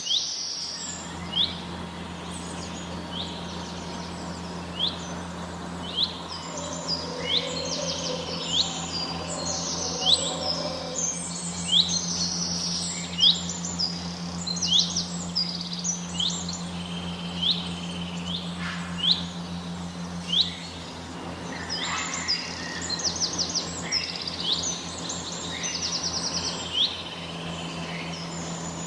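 Many small birds chirping in an aviary: short, sharp, repeated chirps, some in quick trills, over a steady low hum.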